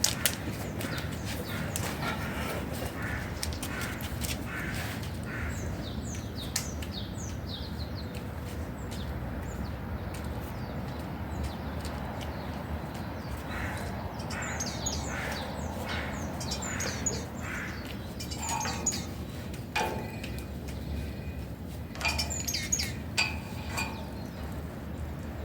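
Wild birds chirping and calling: many short, high chirps, with a few lower, harsher calls in the second half, over a steady low background hiss.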